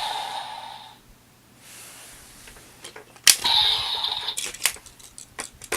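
Evolt Driver toy belt: its electronic sound effect fades out in the first second. Then comes a sharp plastic click about three seconds in, followed by a short electronic tone, and then a run of irregular plastic clicks as the toy is handled.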